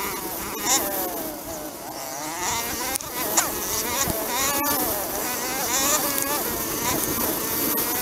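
Dirt bike engine running on board, its pitch rising and falling as the throttle opens and closes over the rough track, with a steady rush of wind noise.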